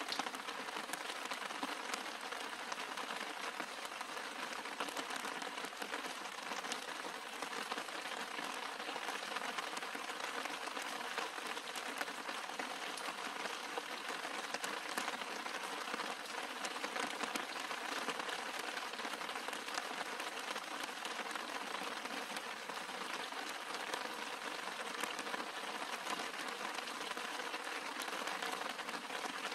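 Steady rain falling on the leaves and flower heads of garden shrubs: an even hiss of countless drops with many small ticks.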